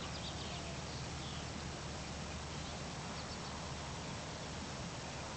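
Quiet outdoor rural ambience: a steady hiss with a few faint, short, high chirps from distant birds.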